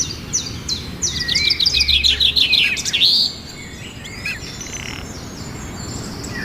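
A bird calling: a fast series of short, high chirps from about a second in until about three seconds, then fainter calls.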